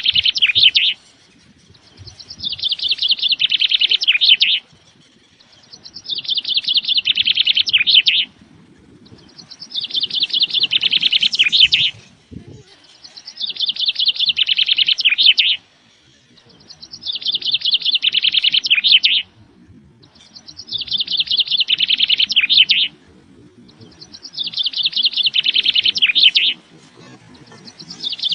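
Bird chirping in rapid high trills, each phrase about two and a half seconds long, repeated in near-identical form roughly every three and a half seconds.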